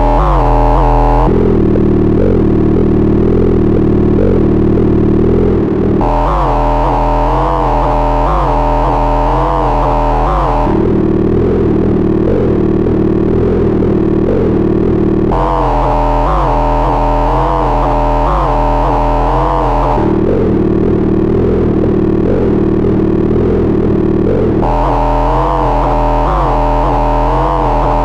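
Arturia Buchla Easel software synthesizer playing a loud, distorted sustained drone that switches back and forth between two tones about every four and a half seconds. The brighter of the two has a wavering warble in its upper tones.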